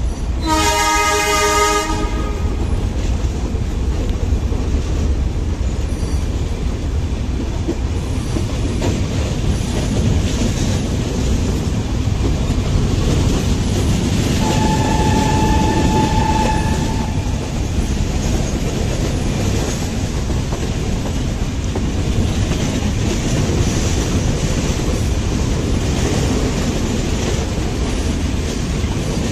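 Nilgiri Mountain Railway toy train running with a steady rumble and wheel clatter. Its horn sounds briefly about half a second in, and again around fifteen seconds in as a longer, single-note blast of about two and a half seconds.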